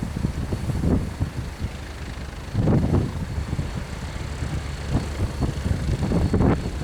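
Helicopter running in strong gusty wind: wind buffets the microphone in irregular rumbling gusts, loudest about three seconds in and near the end, over a faint steady high whine.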